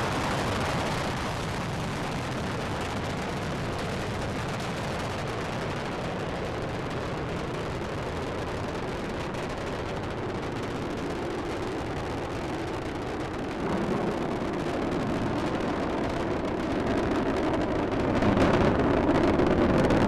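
Space Shuttle Discovery's solid rocket boosters and main engines during ascent, a steady rumble that grows louder about 14 seconds in and again near the end.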